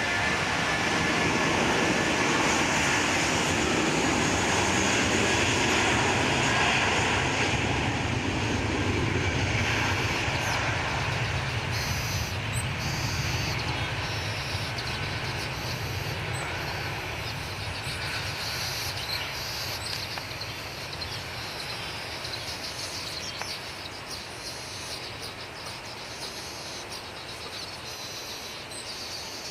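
Jet engines of an Airbus A320-200 at takeoff power, a steady loud rushing noise that slowly fades away as the airliner departs.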